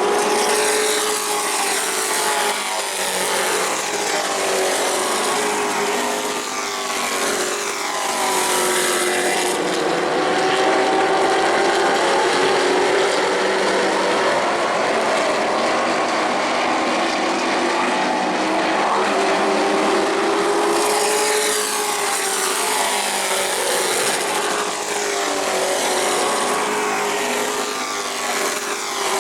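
A pack of racing trucks running at speed on an oval track. Their engines rise and fall in pitch over and over as the trucks pass by.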